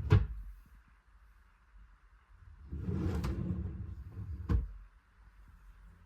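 Wardrobe being emptied: a sharp wooden knock at the start, then a couple of seconds of handling and rustling ending in a second knock about four and a half seconds in.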